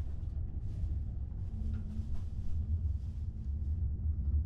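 Steady low rumble inside the passenger cabin of an ICE 3M high-speed train running along the track.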